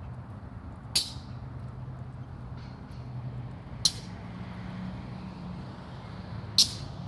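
A low, steady engine hum, with three sharp clicks about three seconds apart.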